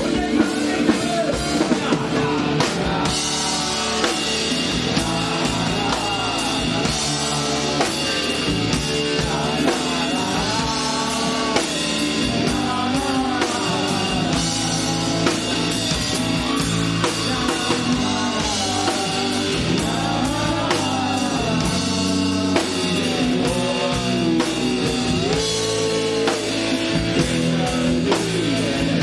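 Live rock band playing: a drum kit keeps a steady beat under guitars, with a wavering lead melody carrying a stretch without sung words.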